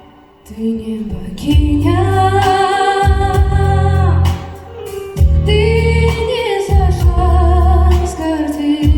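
A female voice singing a slow song over a backing track with a strong bass, holding long notes with vibrato. The accompaniment starts quietly and the voice enters about a second and a half in.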